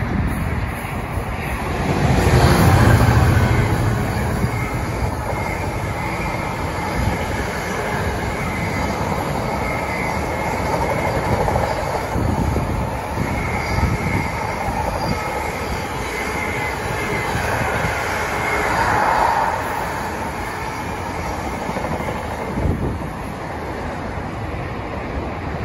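Container freight train passing on the main line: a heavy rumble, loudest about three seconds in as the front goes by, then a long run of wagons rattling over the rails with intermittent high wheel squeal, easing slightly near the end as the train moves away.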